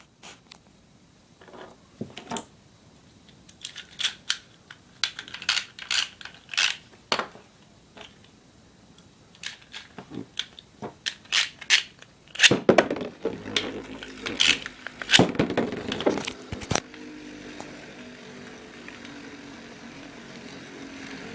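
Irregular plastic clicks and rattles of Beyblade tops and launchers being handled and reloaded, busiest near the middle. A steady faint hum takes over for the last few seconds.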